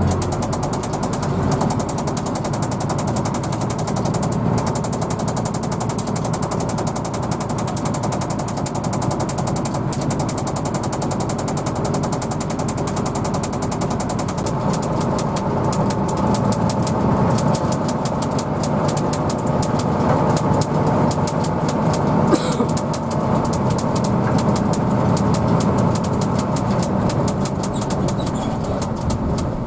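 Diesel engine of a Hino AK bus running steadily while the bus is under way, with a fast, even rattle of ticks over the engine noise.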